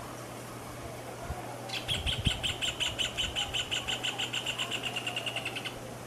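Rufous hornero singing: a loud run of quick, ringing notes lasting about four seconds, starting just under two seconds in and speeding up toward the end as it fades a little.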